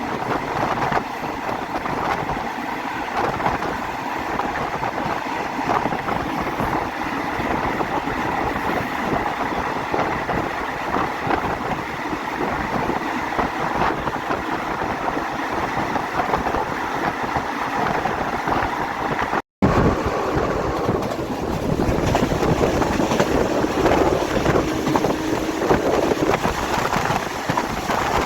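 Passenger train running along the line, heard from on board: a steady rumble of the train with wind buffeting the microphone. The sound cuts out for a split second about two-thirds through, then carries on a little louder.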